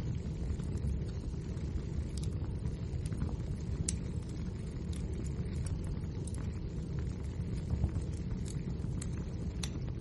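Wood fire burning with a steady low roar, crackling and popping in scattered sharp snaps every second or so.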